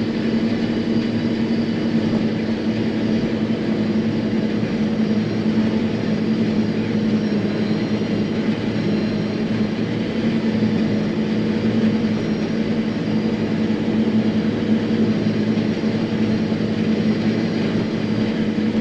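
John Deere self-propelled forage harvester running steadily while chopping corn, heard inside the cab: an even, unbroken hum with a strong low tone.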